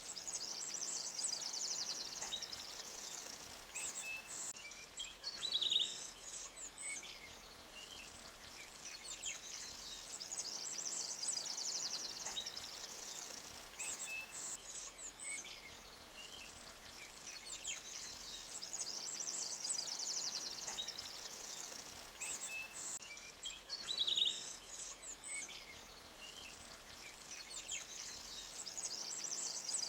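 Forest birdsong: rapid high trills and scattered chirps from small songbirds, with the same run of calls recurring about every 18 seconds, over a soft steady hiss of a running creek.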